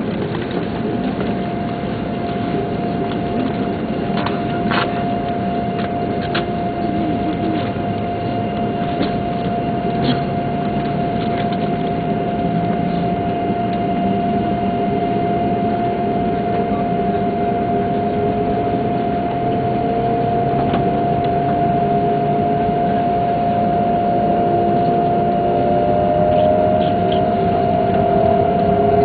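Shinkansen train heard from inside the passenger cabin as it pulls away from a station and gathers speed: a steady running rumble with a held whine. From about halfway on, the traction motors add several tones that slowly rise in pitch as the train accelerates, and the sound grows gradually louder.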